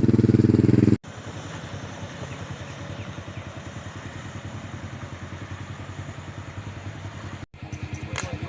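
Motorcycle engine running with an even firing rhythm. It is loud for about the first second, cuts off abruptly, then carries on at a lower, steady level.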